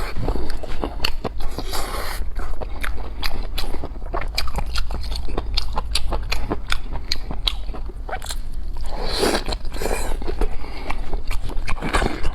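A person chewing crunchy food close to the microphone, with many crisp crunches in quick succession.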